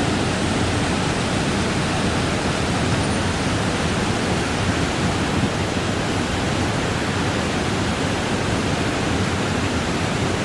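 Mountain stream water rushing over rocks in a steady, loud, unbroken wash, as from a cascade or small waterfall.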